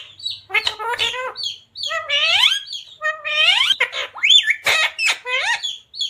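Pet parrot chirping and squawking in a quick series of short, harsh calls, several of them sweeping upward in pitch.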